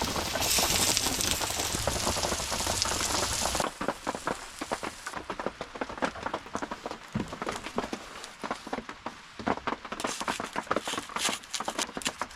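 A loud steady hiss for about the first three and a half seconds, then a wood campfire crackling with many small sharp snaps.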